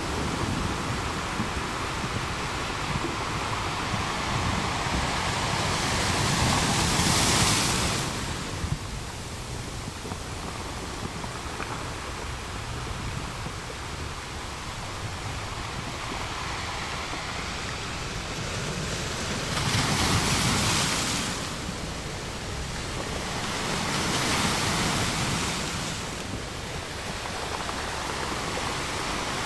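Small waves breaking and washing up on the shore: a steady rush of surf, swelling into louder wave washes about seven seconds in, around twenty seconds, and again near twenty-five seconds.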